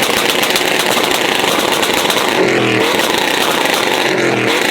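Vehicle engine revving hard at high rpm, its pitch climbing in repeated surges, over a constant loud harsh rasp, typical of a truck doing a burnout.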